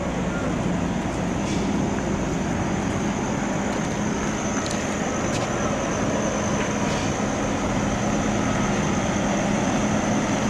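Truck engine running steadily, with a constant low hum and a steady high-pitched tone over it, and a few faint clicks.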